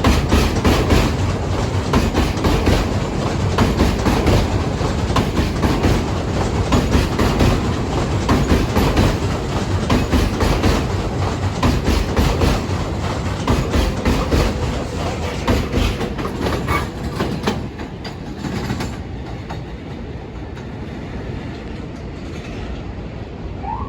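New York City subway train running on elevated track, its wheels clacking rapidly over the rail joints; the clatter fades away about three quarters of the way through, leaving a quieter rumble.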